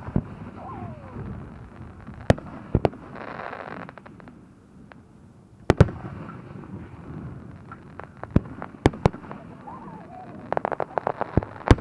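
Aerial firework shells bursting as sharp bangs every second or few, about seven in all, with a quick run of crackling pops near the end.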